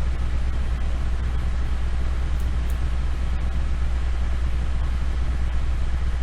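Steady low hum with an even hiss over it, holding at one level throughout, and a few faint clicks.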